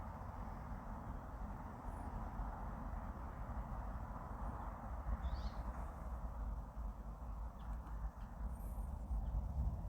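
Outdoor ambience: wind rumbling on the microphone over a steady background hiss, with a few short, faint bird chirps, the clearest about five seconds in and again near nine seconds.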